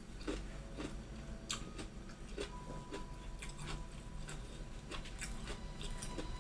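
A person eating gado gado: soft chewing with scattered small clicks, a few every second.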